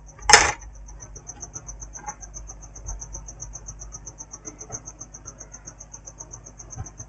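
A rapid, high-pitched pulsing chirp, about seven pulses a second, runs without a break. A single sharp knock just after the start is the loudest sound.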